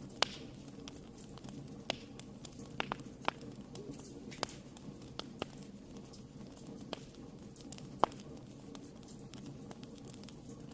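Wood fire burning in a fireplace: a low steady rush of flames with irregular sharp crackles and pops, two of them louder, just after the start and about eight seconds in.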